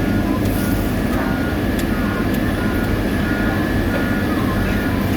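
Diesel engines of heavy road-paving machinery running steadily, with a warning beeper sounding about twice a second.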